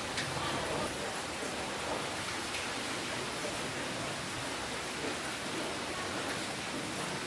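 Steady rainfall: an even hiss of rain with a few faint individual drop ticks.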